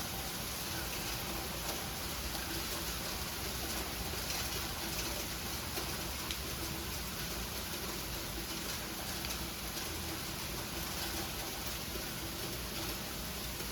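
Sleet falling steadily, ice pellets hitting the ground and nearby surfaces as a dense, even hiss of tiny ticks.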